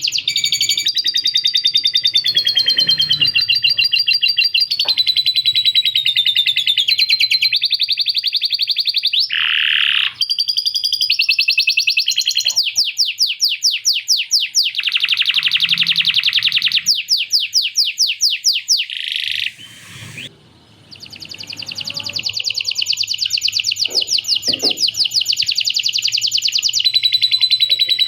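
Male canary singing a long, continuous song of fast rolls and trills, each phrase a rapid string of repeated notes, breaking off briefly about two-thirds of the way through before resuming.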